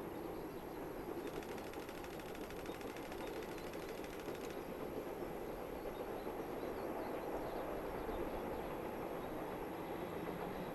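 A train running, a steady rumble with no whistle sounding. A fast, even clicking rides over it from about a second in until about four and a half seconds in.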